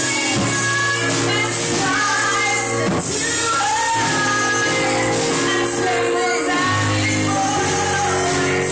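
Live worship music: a congregation or worship team singing with instruments in a large hall, loud and steady.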